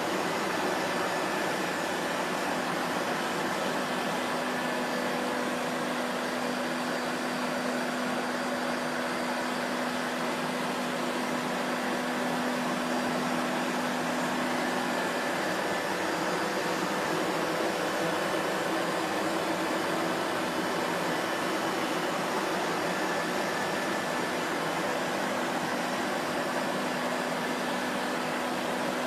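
Vacuum cleaner running steadily: an even rush of air and motor noise with a faint low hum that fades out about halfway through and comes back near the end.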